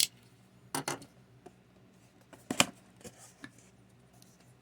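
Cardboard packaging of an action-figure box being opened by hand: a few sharp snaps and scrapes of the box flaps and seals, the loudest about two and a half seconds in, with small ticks and rustles between.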